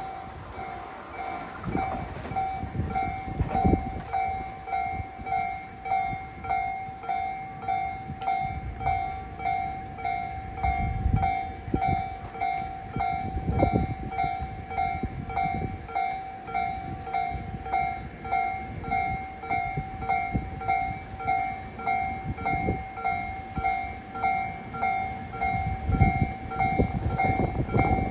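Railway level-crossing warning bell ringing in an even, repeating pulse, while a train rumbles and clatters over the rails in bouts.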